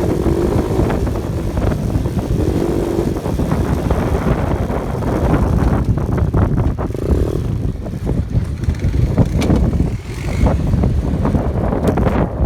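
Off-road vehicle driving on a rough dirt trail: a steady low rumble of engine and tyres, with wind buffeting the microphone and scattered knocks and rattles.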